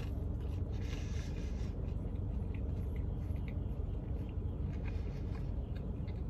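A person chewing a mouthful of toasted sandwich with the mouth closed: soft, faint mouth sounds and a few small wet clicks, over a steady low hum inside a car.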